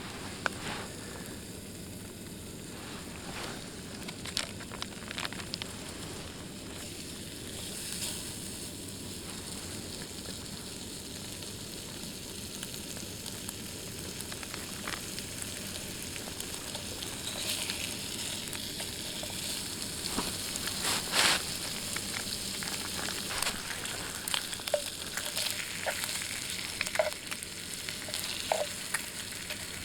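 Food frying in a pan: a steady sizzling hiss with scattered pops and crackles that grow busier in the second half.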